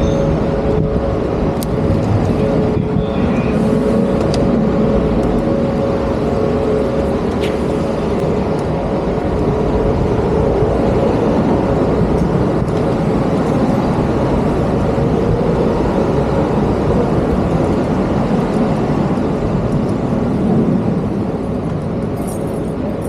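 Steady road-traffic noise on a busy city street: vehicle engines and tyres, with a steady hum during the first several seconds.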